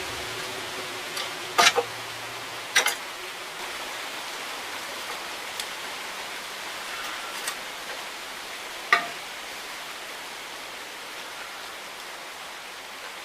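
A few sharp clicks and knocks over a steady background hiss; three of them, about one and a half, three and nine seconds in, are louder than the rest.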